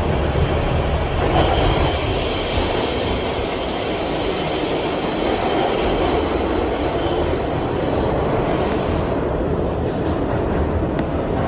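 Kawasaki R62 subway train running on the rails with a steady low rumble. A high-pitched, multi-tone wheel squeal sets in about a second and a half in and dies away about nine seconds in.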